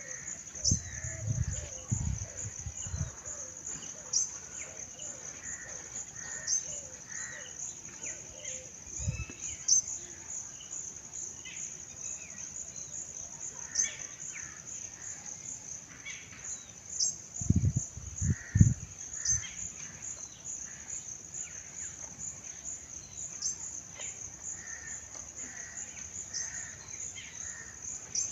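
Outdoor nature ambience: a steady high insect trill that peaks about every two seconds, with scattered bird calls. A few low thumps come near the start and again about two-thirds through.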